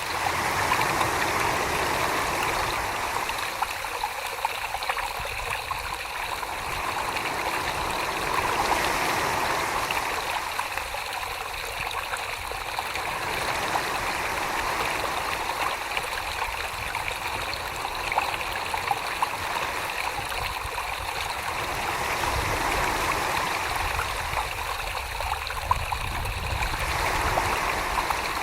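Wet, watery swishing of slip-covered clay being worked by hand on a spinning potter's wheel. It swells and eases every five or six seconds.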